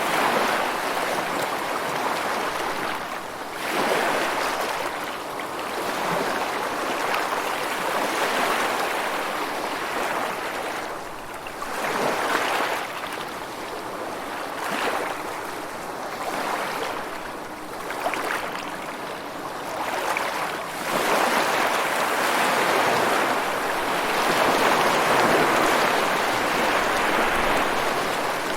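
A steady rush of water, as in a nature recording, that swells and fades every few seconds.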